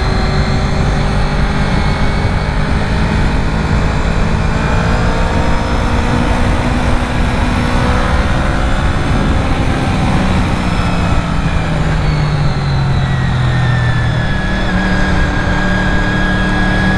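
Honda VFR750's V4 engine running while riding, heard over steady rushing noise; the engine's pitch drifts slowly up and down as the speed changes.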